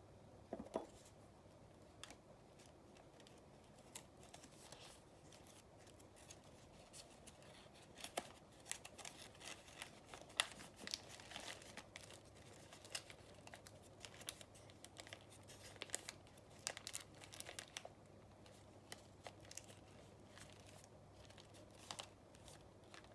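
Faint, scattered rustling and crinkling of origami paper being handled and folded, with small sharp ticks, busiest through the middle.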